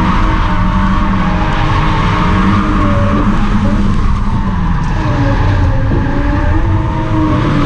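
Volvo 740 turbo's four-cylinder engine running hard under load while the tyres skid through a drift, a steady engine note that wavers slightly over the tyre noise.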